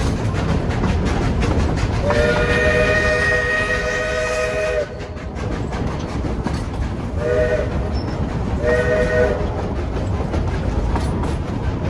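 Railroad locomotive whistle sounding a chord, one long blast followed by two short ones, over the steady rumble and clickety-clack of the train's cars rolling on the rails.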